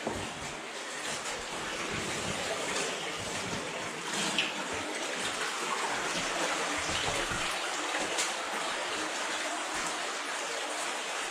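Underground cave stream running steadily, water rushing and splashing over rock, with a few brief sharp sounds on top.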